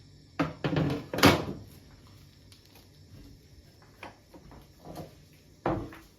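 A few household knocks and clunks: a quick cluster of bangs about a second in, the loudest, then lighter knocks and one more bang near the end.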